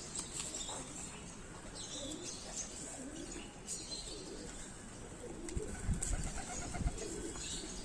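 Pigeons cooing softly in scattered low notes, with a few low bumps about two-thirds of the way through.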